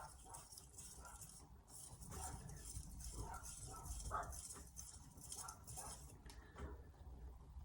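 A carbon-steel kitchen knife blade is stroked back and forth on a wet splash-and-go whetstone, giving a faint, repeated hissing scrape with short pauses between strokes.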